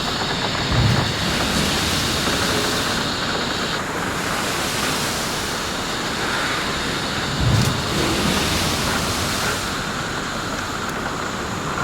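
Steady rushing of wind and surf, with two short low thumps of wind buffeting the microphone, about a second in and again about 7.5 seconds in.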